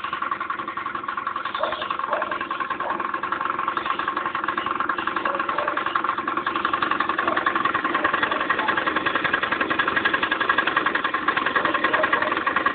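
Honda Dio scooter engine running steadily, growing slightly louder through the stretch, with the strange engine noise its owner wants identified.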